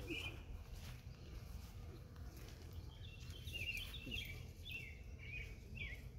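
Small songbirds singing in quick runs of short chirps, a brief run at the start and more from about halfway through, over a steady low rumble.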